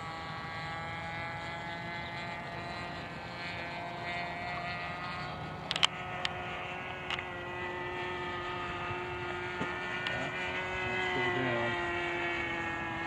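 OS .46 two-stroke glow engine of an RC model airplane droning steadily in flight, its pitch shifting slightly as the plane moves about the sky. A few sharp clicks come about six and seven seconds in.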